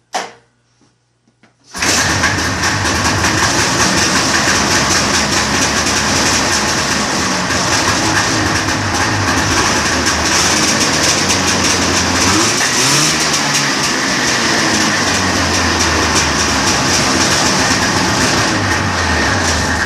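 A 1976 Arctic Cat Cheetah 5000 snowmobile's 500cc fan-cooled two-stroke Suzuki Spirit engine, on choke, making its first start after about 20 years without running. A brief burst, then it catches about two seconds in and runs loud and steady, its revs sagging and picking back up around two-thirds through, and it cuts off suddenly near the end.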